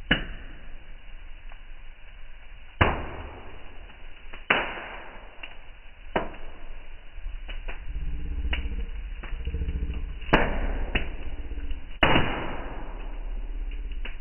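Wood fire in a fireplace crackling, with irregular sharp pops every second or two over a low rumble of the flames. The biggest pops come about three seconds in, four and a half seconds in, and near twelve seconds.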